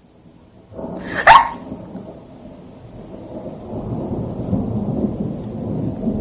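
Thunder after a close lightning flash: a sudden crack about a second in, then a long low rumble that grows louder toward the end. A brief high cry sounds with the crack and is the loudest moment.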